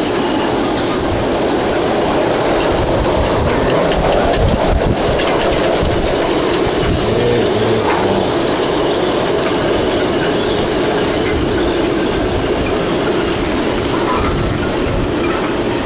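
Strong wind from a hurricane's outer bands blowing without let-up, buffeting the microphone with a continuous low rumble.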